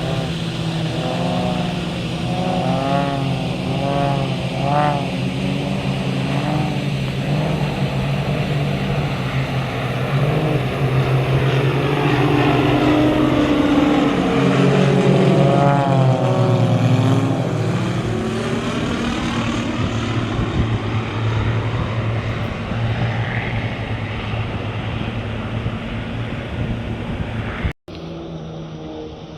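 Aircraft flying past at an air show: a steady engine drone with several low held tones and a sweeping rush. It swells to its loudest about halfway through, eases off, then drops suddenly near the end.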